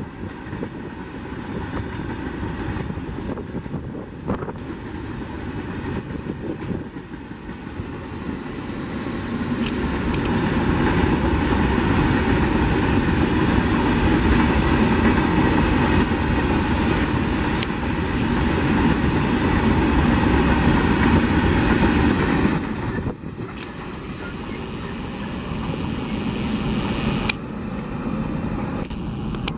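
Freight train of steel open wagons rolling past at speed: a steady rumble of wheels on rail that grows louder about ten seconds in and drops off suddenly near the end.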